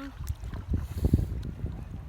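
Wind buffeting the microphone: an uneven, gusty low rumble with scattered short knocks.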